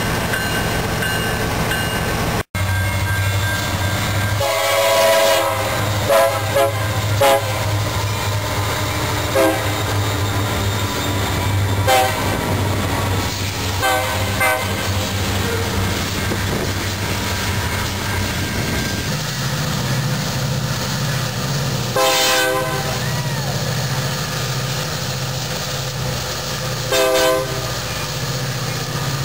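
Union Pacific freight train rolling past at close range: a steady rumble and clatter of wheels on rail, with several short, high-pitched squeals from the wheels and rails. About two-thirds of the way through, the drone of diesel locomotives in the middle of the train comes in as they pass.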